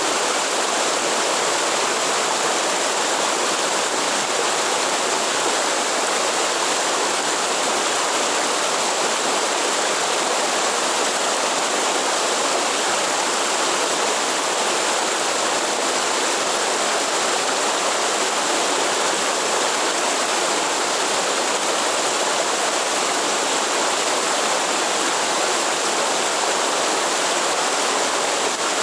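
Waterfall: water falling and rushing steadily, an even hiss with little low rumble.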